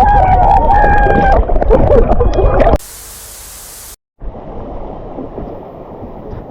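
A loud rush of water with a high held yell over it, cut off suddenly about three seconds in; after a brief hiss and a moment's dropout, a quieter muffled rushing of water.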